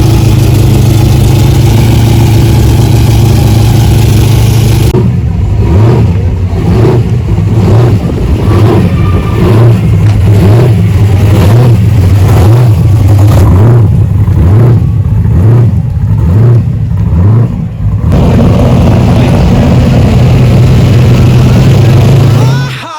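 A muscle car engine running loud: steady at first, then pulsing in repeated revs about one and a half times a second for some thirteen seconds, then steady again until it cuts off near the end.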